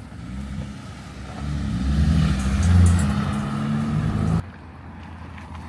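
A motor vehicle's engine drives past, growing louder from about a second and a half in. It cuts off suddenly at about four and a half seconds.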